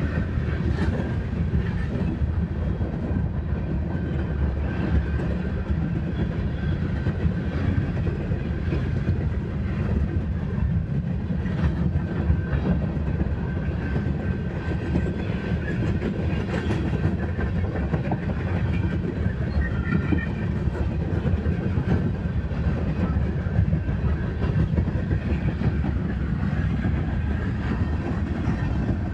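Empty coal train cars rolling steadily past, a continuous low rumble with the wheels clicking irregularly over the rail joints.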